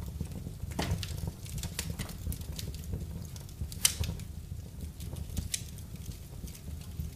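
Wood fire in a fireplace crackling, with irregular sharp pops and one loud pop about four seconds in, over a steady low rumble.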